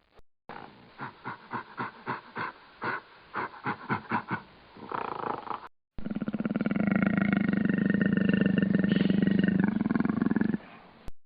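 Two recorded wild animal calls. First a string of short, irregular calls for about five seconds; then, after a brief break, one long, deep, continuous call lasting about four and a half seconds.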